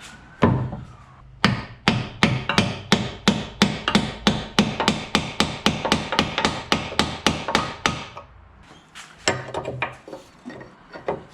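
Hammer blows driving a Bobcat 753 quick-attach tapered pin down: one strike, then a fast even run of about four strikes a second for several seconds, then a few more near the end.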